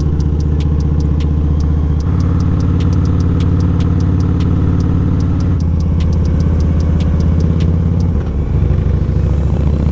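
Harley-Davidson Electra Glide V-twin engine running on the move, its note changing in steps about two, five and a half and eight seconds in.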